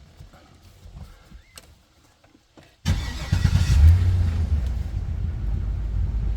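A 2006 GMC truck's engine starting about three seconds in: it catches at once, revs up briefly and settles into a steady idle.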